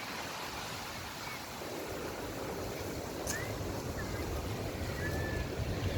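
Düden Waterfall's falling water rushing in a steady roar, the low rumble growing heavier about two seconds in, with a few short high chirps over it.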